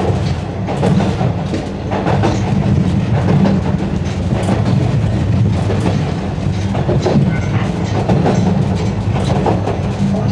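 Yokkaichi Asunarou Railway narrow-gauge train running, a steady low rumble with irregular clicks and knocks of the wheels over the track.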